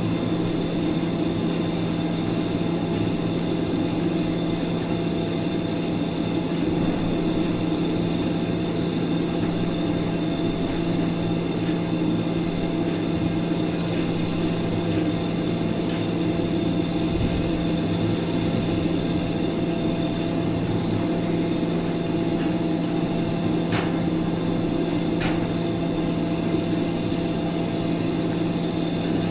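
A steady machine hum with a constant low tone, running unchanged, with two faint clicks near the end.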